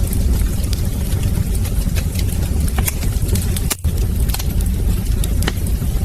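Wood fire in a fireplace crackling, with frequent sharp pops and snaps over a steady low rumble of the flames. The sound cuts out for a moment about two-thirds of the way through.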